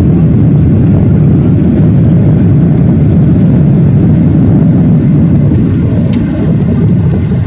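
Cabin noise inside a Boeing 737-800 during takeoff: the CFM56 jet engines and rushing air make a loud, steady, deep rumble.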